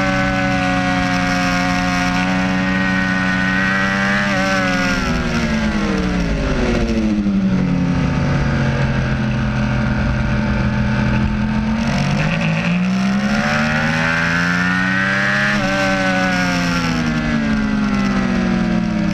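Onboard sound of a sport motorcycle's engine at track speed over wind rush: held at high revs, then revs falling from about four seconds in as it slows for a corner, staying low through the turn, climbing again on the throttle around twelve seconds in, and dropping once more near the end.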